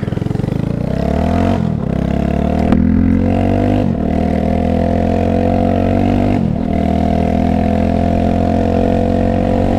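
Yamaha YS 250 Fazer's single-cylinder engine pulling away from a stop and accelerating, its pitch climbing then dropping at each of three upshifts, about one and a half, four and six and a half seconds in. After the last shift it runs fairly steadily at cruising speed.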